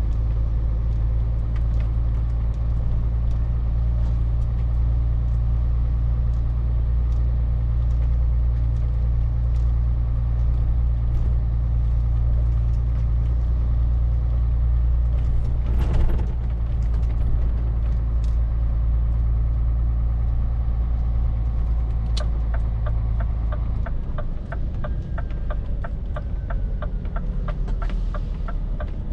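Scania R450 lorry's diesel engine running steadily under way, a deep constant drone. Near the end the engine note drops, as if easing off or slowing, and a regular ticking of about two to three clicks a second sets in.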